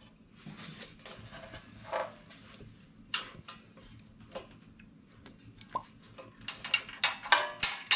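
Light metallic clicks and taps of hand tools working the screws on a mower's engine shroud. They are scattered at first and turn into a quick run of clicks near the end.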